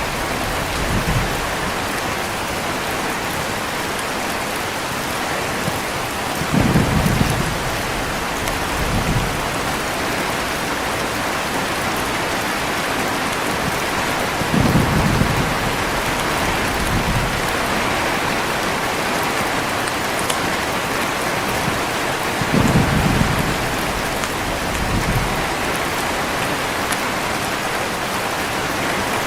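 Heavy rain falling steadily, with low rolls of thunder three times, about eight seconds apart, each followed by a weaker rumble a couple of seconds later.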